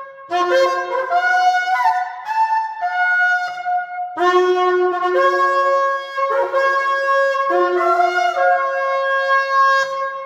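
A 39-inch spiralled ram's-horn-style shofar being blown in several long blasts, the pitch jumping up and down between a few notes, with fresh blasts starting about four, six and seven and a half seconds in.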